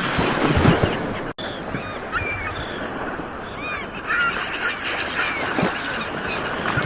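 Ocean surf washing in steadily, with a flock of birds calling over it in many short, overlapping honking calls.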